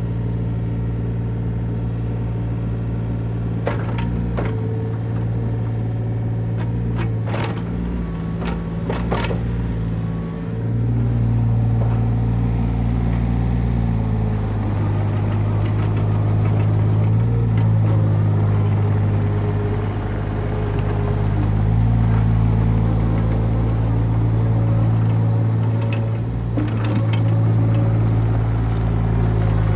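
Case CX37C mini excavator's diesel engine running under working load, its drone swelling and easing as the hydraulics are worked. Several sharp knocks come about four seconds in, in a cluster around eight to nine seconds, and again near the end.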